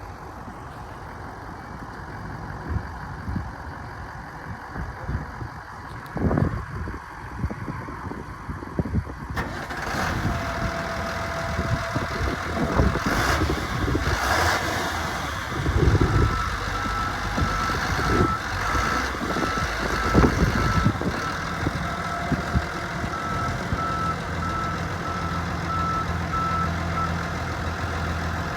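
A 1998 GMC 6500 Topkick diesel truck with knocks and thumps, then its engine running steadily. A rapid, even electronic beeping sounds for about ten seconds from just past the halfway point.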